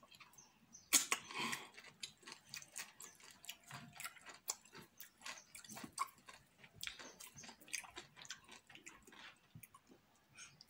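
Close-up chewing and wet mouth sounds of someone eating fufu with slimy okro and ogbono soup by hand: many short clicks and smacks, with a louder burst about a second in.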